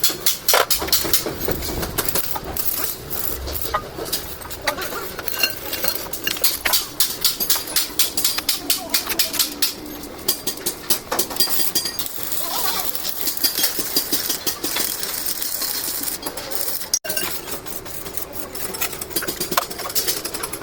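Hand tools clinking and tapping on metal in quick, irregular clicks and knocks.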